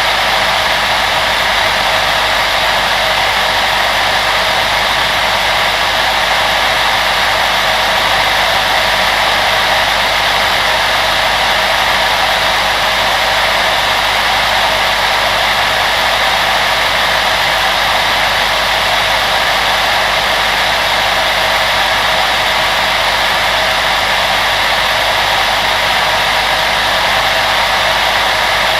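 Electric fan appliance running steadily: a continuous airy whoosh of blown air with a faint motor hum, unchanging throughout.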